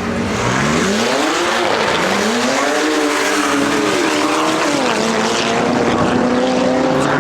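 Performance car engine under hard acceleration. Its pitch climbs about a second, drops, climbs again and drops around four and a half seconds in, as with gear changes or throttle lifts, then holds fairly steady.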